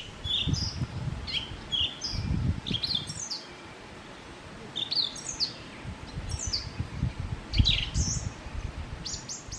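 Small songbirds chirping repeatedly, in short notes that mostly fall in pitch. A low rumble comes and goes a few times underneath.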